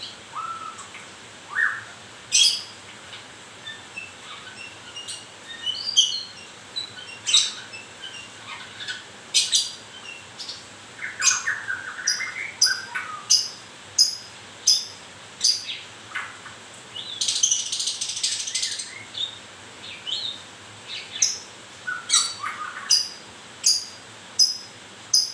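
White-rumped shama (murai batu) in moult, calling with short, sharp notes repeated over and over and a few whistled phrases, with a harsher rasping burst lasting about two seconds partway through.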